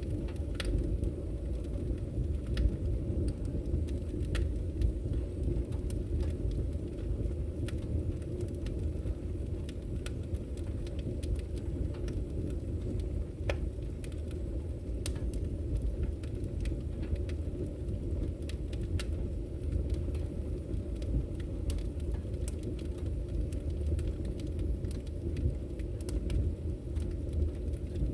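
Wood fire burning in a fireplace: a steady low rumble of flames with irregular, scattered crackles.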